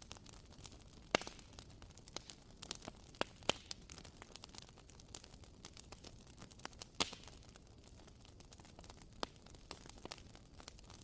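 Wooden wick of a WoodWick candle crackling like a small campfire: irregular little pops and ticks, with the sharpest pops about a second in and about seven seconds in.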